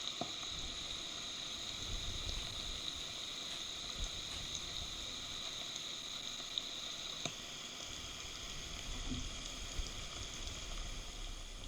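Steady hiss of heavy rain in a forest, with scattered sharp drip ticks and low gusts of wind rumbling now and then.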